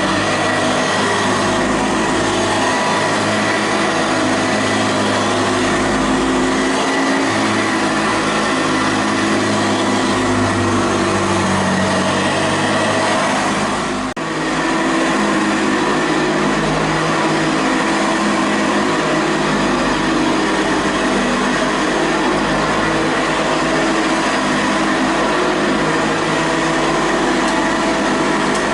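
Hoover Ranger Senior U4014 upright vacuum cleaner running on short-pile carpet: a steady motor whine over the beater-bar brush roll beating the carpet. The sound dips briefly about halfway through.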